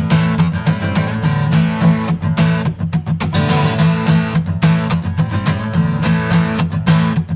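Acoustic guitar strummed in a steady, upbeat rhythm, with no singing.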